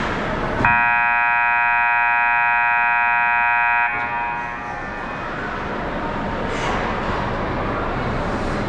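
Hockey arena's horn sounding one steady blast of about three seconds, starting just under a second in and cutting off sharply, over the rink's background noise.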